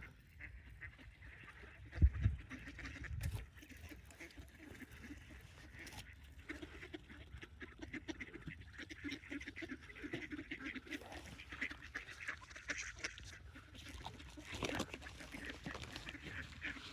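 Waterfowl at a winter feeding spot calling, many short overlapping honks and quacks that thicken from about six seconds in. A loud low rumble about two seconds in, lasting about a second and a half, is the loudest sound.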